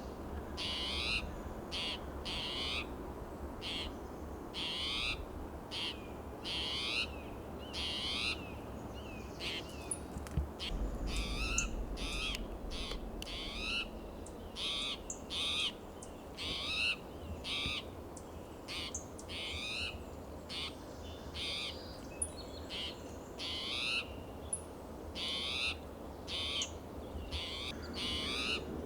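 Spotted towhee giving its harsh, rising, mewing alarm call over and over, about once a second: the bird is agitated.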